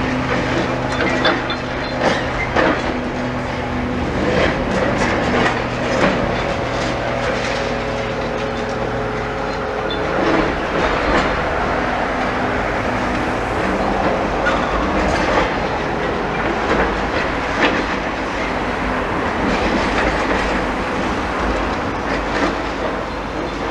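Demolition excavator's diesel engine running, with continual irregular crunching and clattering of rubble and metal as a building is pulled down.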